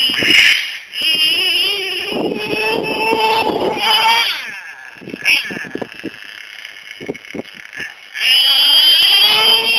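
Two-stroke O.S. 18TM nitro engine of a Traxxas Revo RC monster truck revving with a high, wavering whine. Its pitch climbs around four seconds in, drops back for a few seconds, and comes back loud near the end.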